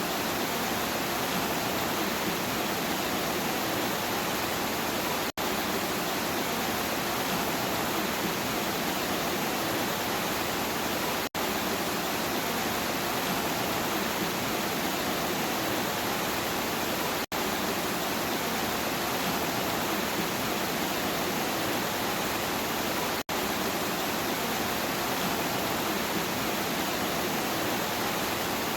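Steady heavy rain, an even hiss, broken four times by a very short gap about every six seconds.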